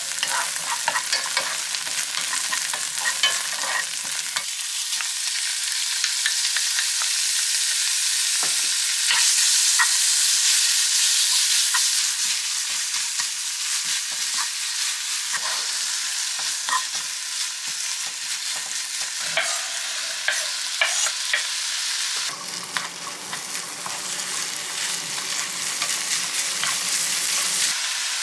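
Green onion, garlic and then minced pork sizzling in a nonstick frying pan, stirred with a spatula that scrapes and taps against the pan. The sizzle is loudest about ten seconds in.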